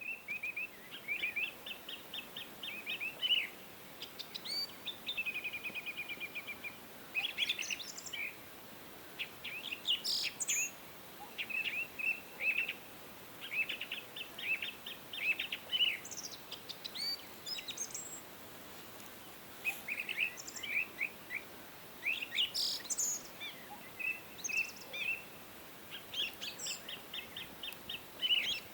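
Songbirds singing: phrases of quick, high chirps and trills repeated one after another, with short pauses between them, over a faint steady hiss.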